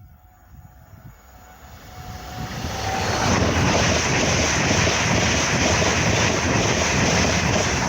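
A train approaching and passing at speed on the main line: a rushing, rumbling noise that builds over the first three seconds and then holds loud and steady.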